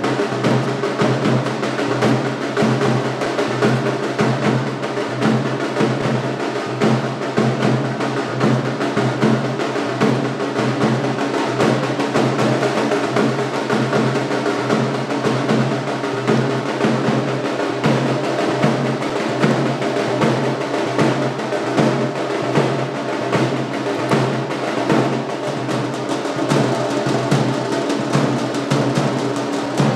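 Music made up mostly of fast, continuous drumming, its beats dense and even throughout.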